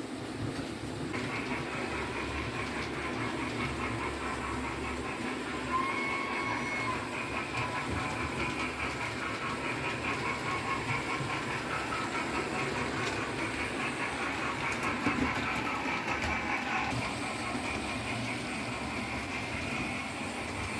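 Model trains running on the layout's track: a steady whirring with fast, fine clatter from about a second in. A short toot about six seconds in.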